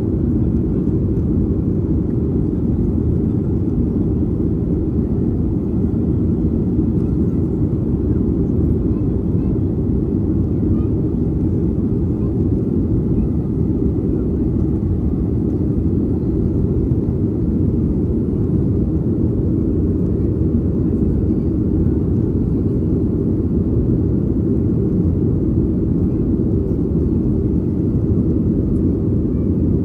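Steady low rumble inside the cabin of a Boeing 737-800 airliner: its CFM56 jet engines and the airflow over the fuselage, holding an even level throughout.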